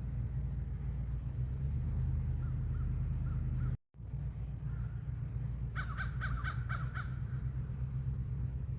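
A crow cawing: a quick run of about six caws a little past halfway, with fainter calls a few seconds earlier, over a steady low rumble.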